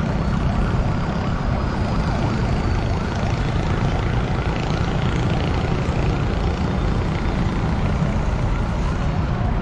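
Motorcycle engines running in a slow-moving line of motorcycles and tricycles, heard from one of the vehicles, with steady road and wind noise.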